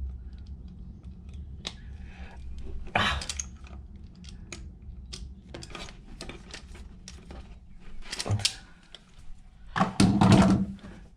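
Hand crimping tool squeezing insulated female disconnect terminals onto wire ends, with small clicks and handling noises and louder sounds about three seconds in, just after eight seconds, and near the end.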